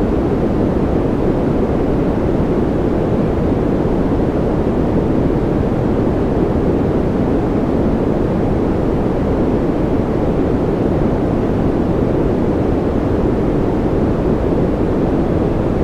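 Steady sleep-aid white noise track, an unbroken rushing hiss that is deep rather than bright, with most of its weight in the low end. It holds at a constant level.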